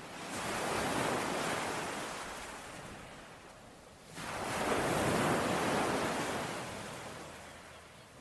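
Sea waves breaking on a shore: one wave washes in and slowly fades, then a second breaks suddenly about four seconds in and drains away.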